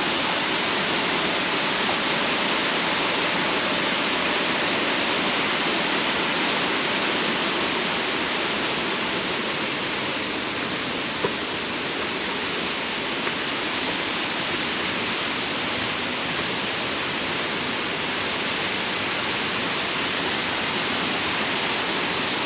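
Steady rush of flowing river water, an even unbroken noise, with a single short click about halfway through.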